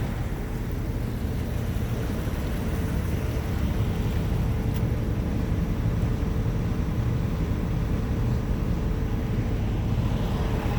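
Steady low machinery rumble with a faint steady hum running through it.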